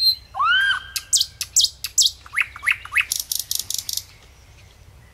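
Bird calls: a rising, arching whistle, then a run of sharp chirps that quickens into a fast rattle of notes, ending about four seconds in.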